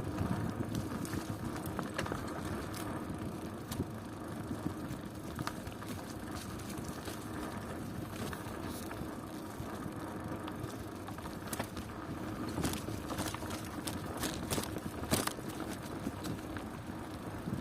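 Bicycle being ridden: steady tyre and drivetrain noise with scattered clicks and rattles, which come thicker past the middle.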